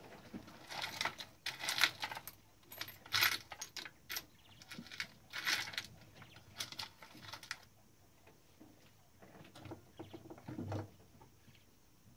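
Small metal parts clinking and rattling as they are handled and sifted, in irregular bursts, with a few quieter knocks near the end.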